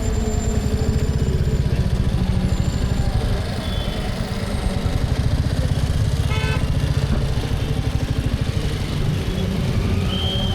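Motorcycle engine running steadily under wind and road noise picked up by a helmet camera, with a vehicle horn sounding briefly about six and a half seconds in.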